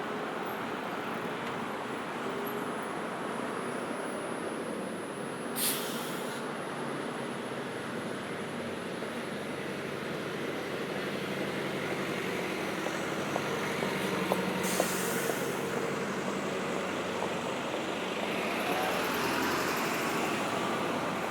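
Busy city street traffic: vehicles idling and moving past, with engine hum under a steady wash of road noise. Two short hisses come about 6 and 15 seconds in, and a rising whine starts near the end as a vehicle pulls away.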